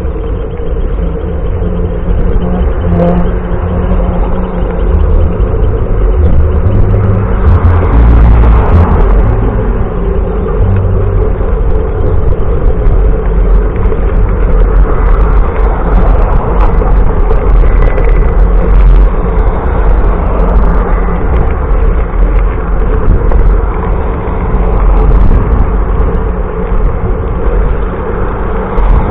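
Loud wind buffeting and road noise from a bicycle ride, a steady rush heavy in the low end.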